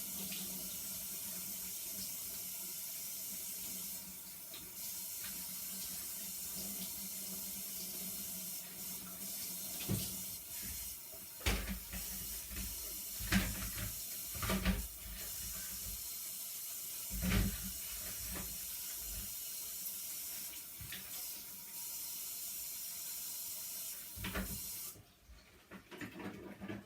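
Kitchen tap running steadily into a sink while vegetables are rinsed under it, with several knocks and clunks in the sink in the middle. The water stops near the end.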